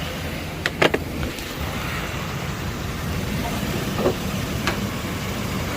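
Forest River Sunseeker RV's engine idling steadily, freshly jump-started from a flat battery. A few sharp clicks and knocks sound over it, two close together about a second in and more near the end.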